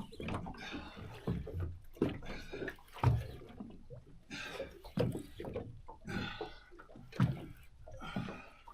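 Water slapping against the hull of a small boat, with irregular low knocks about once a second and short hissing swells between them.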